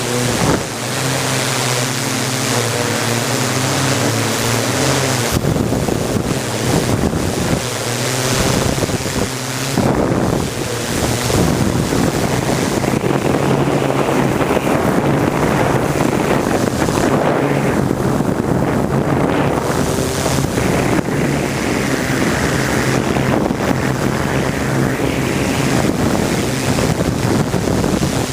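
Steady rushing wind noise on the microphone over the constant hum of a drone's rotors in flight, with a few higher whining tones in the first five seconds.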